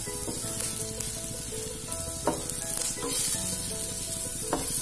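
Drumstick (moringa) pieces and onion sizzling in oil in a pan as a ladle tosses them, with several sharp scrapes of the ladle against the pan. This is the final stir of the finished stir-fry.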